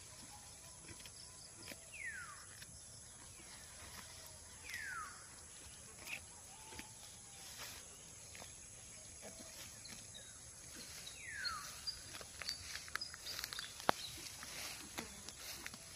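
A bird gives a short call that slides downward in pitch, repeated every few seconds over a steady high insect hum. Toward the end comes a run of crisp tearing clicks, typical of a cow cropping and chewing grass.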